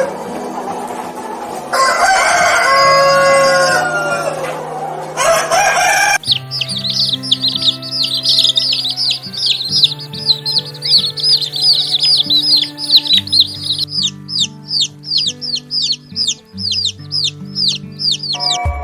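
A rooster crowing in long calls over the first six seconds. Then comes rapid high peeping, about three or four short falling chirps a second. Steady background music runs underneath.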